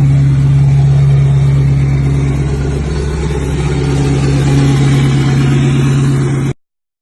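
Diesel pickup truck engine running loud at steady high revs, with a deep drone that dips slightly around halfway, then cuts off abruptly near the end.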